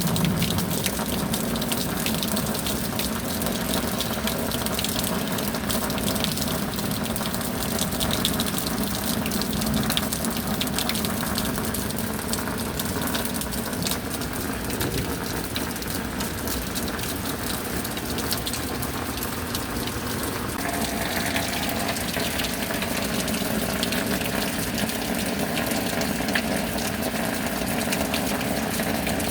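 Steady rain with a continuous rush of running water and a dense patter of drops; the pitch of the rush shifts slightly about two-thirds of the way through.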